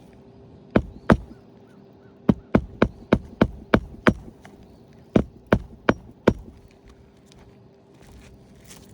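Hammer driving roofing nails into an asphalt shingle: two strikes, then a quick run of about seven at roughly three a second, then four more, fastening a replacement shingle with flush nails.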